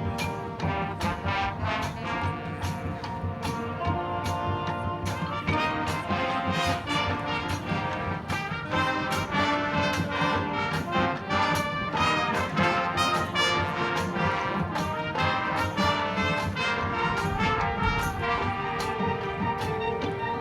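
Marching band playing: brass over drums keeping a steady beat.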